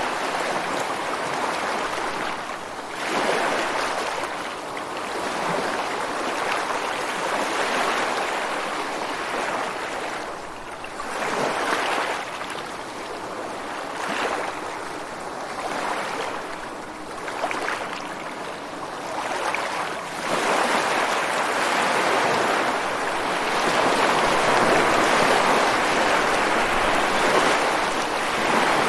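Ocean waves breaking and washing against shoreline rocks, a continuous rush of surf that swells with each wave every few seconds and grows louder and more sustained in the last third.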